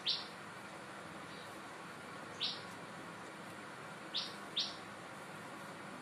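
A bird chirping: four short, high calls, each a quick downward sweep, the last two close together near the end, over a steady faint hiss.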